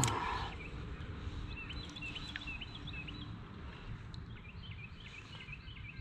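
Small animals chirping outdoors: many short, high chirps repeat irregularly over a low, steady rumble of background noise. A brief louder sound falling in pitch comes right at the start.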